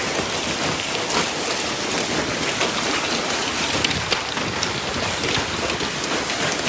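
Hail and rain pelting a car's body: a dense steady hiss studded with many sharp ticks of hailstones striking the metal.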